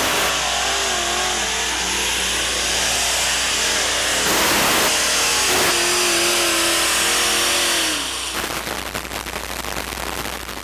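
Modified pulling tractor's engines running wide open under load during a pull, the pitch wavering up and down. About eight seconds in the sound falls a little and turns rough and crackling.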